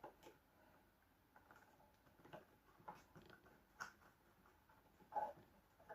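Faint, scattered taps and rubs of a cable being fed through plastic wiring trunking, a few soft clicks a second or so apart.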